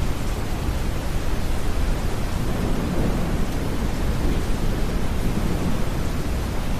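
Steady deep brown noise mixed with rain hiss, with a soft rumble of distant thunder swelling and fading in the middle.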